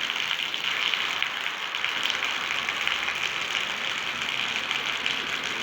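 Heavy tropical rain falling steadily, a dense, even patter of drops on a surface.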